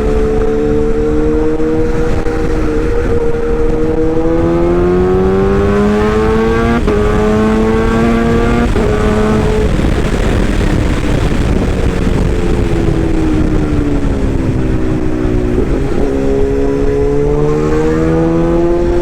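A toy excavator's motor running continuously, its pitch slowly rising, dropping and rising again, with a few short clicks.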